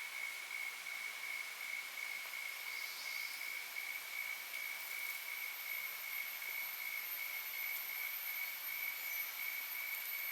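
Steady insect chorus: a constant high-pitched tone over an even hiss.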